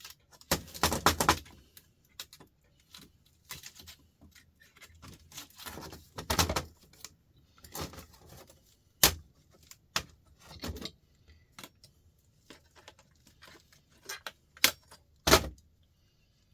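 Small metal parts and hand tools clinking and clattering as a light fixture is worked apart by hand, in irregular bursts with a few sharp clicks.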